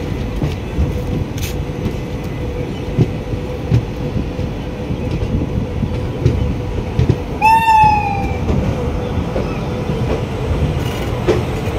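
Passenger train coaches rolling slowly into a station: a steady low rumble with occasional knocks from the running gear and a faint steady hum. About seven and a half seconds in there is one short, high squeal that falls slightly in pitch.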